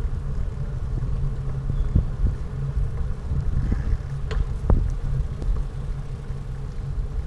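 Steady low rumble of riding along a road, heard through a mounted action camera, with a few sharp knocks about two seconds in and again near the middle.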